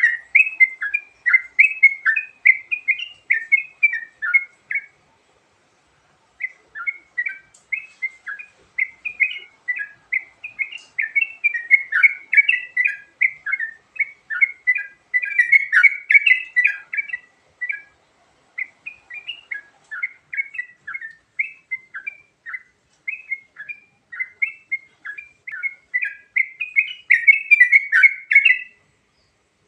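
Yellow-vented bulbul (trucukan) song: long runs of quick, varied chattering notes. The runs break off briefly about five seconds in and again past the middle, and stop shortly before the end.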